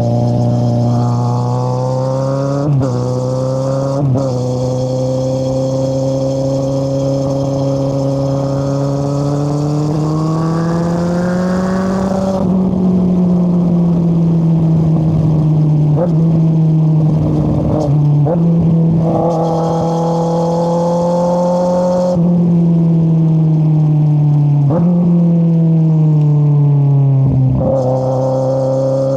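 2013 Kawasaki Z800's inline-four running through an Akrapovic exhaust with the dB killer removed, under way. The revs rise and break briefly at two gear changes early on, then cruise steadily, with a few short dips and a climb in revs near the end.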